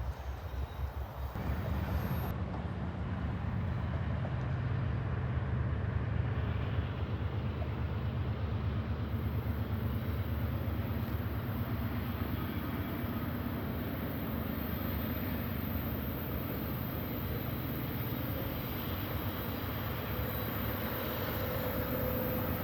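CSX freight train rolling past, a steady low rumble that grows louder about two seconds in and then holds.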